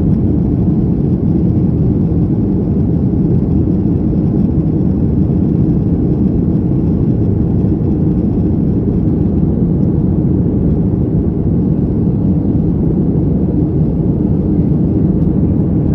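Steady low rumble inside the cabin of a Boeing 737-800, from its CFM56 engines and the airflow around the fuselage, holding even with no changes.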